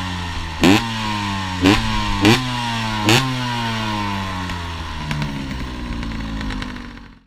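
Cagiva Planet 125's single-cylinder two-stroke engine through a full Giannelli exhaust, blipped four times in quick succession. Each sharp rise in revs falls slowly back, then the engine settles toward idle and fades out at the end.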